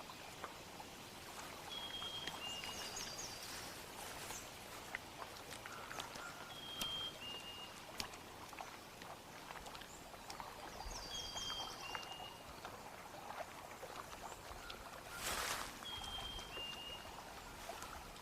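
Outdoor ambience with a bird's two-note whistle, the second note lower, repeated about every four to five seconds, and a quick high trill from another bird twice. Scattered small clicks and knocks, and a short rush of noise about fifteen seconds in.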